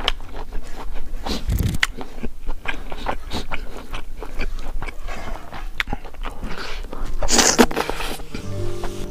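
Close-up mouth sounds of chewing and crunching crispy pork, a run of short crunchy clicks, with a louder hiss-like burst about seven seconds in. Background music starts near the end.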